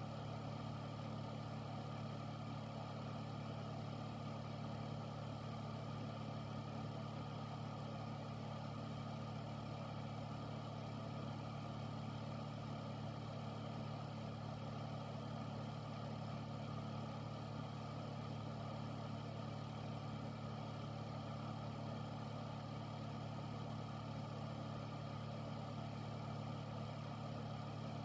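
Air filter unit running steadily: a low, even motor hum with the rush of air through the fan.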